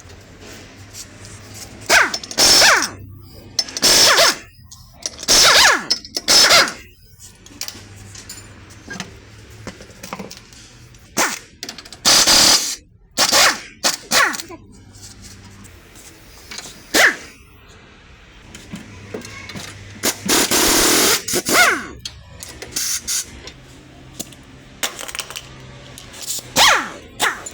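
Nissan Sunny making the noise that its fault produces: about a dozen loud, irregular bursts, each half a second to two seconds long, over a low steady hum.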